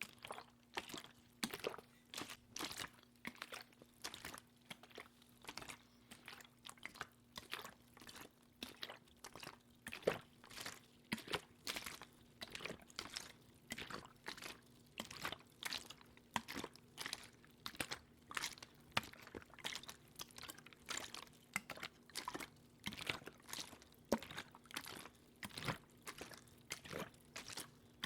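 Close-miked ASMR water sounds: a quick, continuous series of short wet clicks and splashes, about two or three a second.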